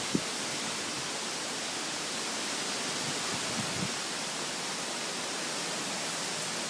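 Steady rushing hiss of strong thunderstorm winds, with a faint low buffet or two about halfway through.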